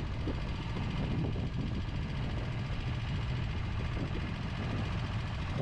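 Go-kart engines running in a steady, low drone.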